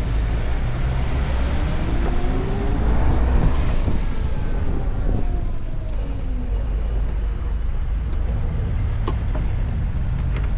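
Wind and road noise while riding an electric motorcycle through city traffic: a steady low rumble. Between about two and six seconds in, a tone slides down in pitch, and a few light clicks come near the end.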